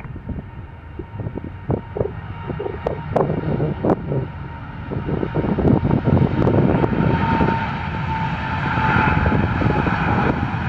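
Jet airliner's engines growing steadily louder as it passes, with a steady whine joining in during the second half.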